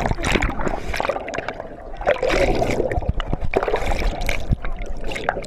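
Water sloshing and splashing, with many short sharp knocks.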